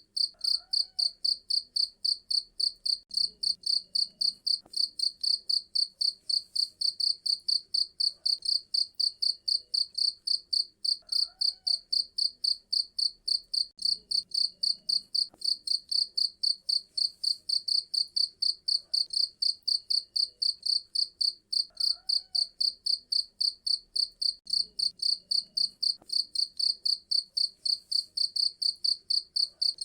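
Cricket chirping: a high-pitched, even run of chirps, about three a second, without pause.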